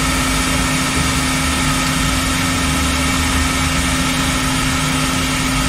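Steady mechanical hum with one constant tone and an even hiss, unchanging throughout.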